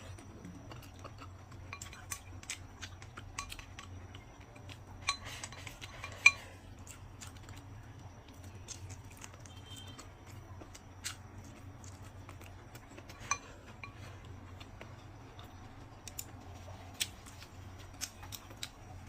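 Eating utensils clinking and tapping against dishes, with scattered small clicks and a few sharper clinks, over a steady low hum.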